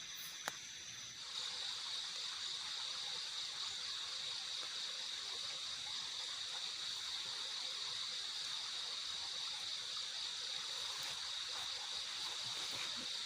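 Night forest ambience: a steady, high insect chorus over an even hiss of light drizzle. The hiss thickens about a second in, just after a single sharp click.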